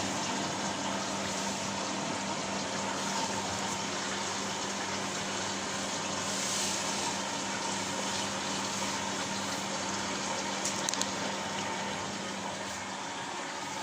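Steady white noise: an even rushing hiss with a low electrical hum under it, and a few faint ticks about eleven seconds in.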